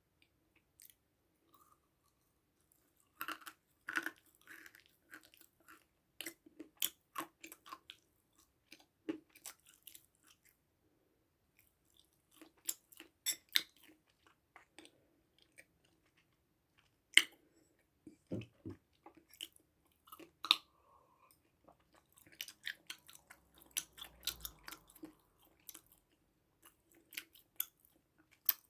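Close-miked chewing and crunching of food in the mouth: irregular clusters of crisp crackling clicks with short pauses, with two sharper crunches past the middle.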